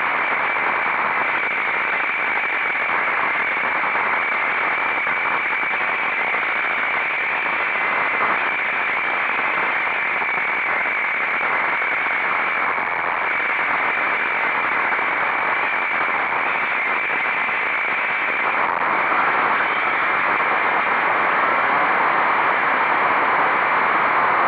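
Steady rush of wind on the microphone of a camera on a motorcycle at speed, with a thin steady high whine running through it. The rush grows a little louder about three-quarters of the way in.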